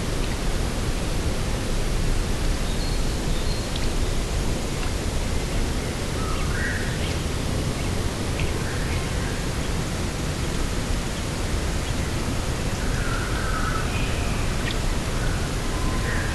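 Steady rush of wind over open coastal ground, with faint short bird calls now and then.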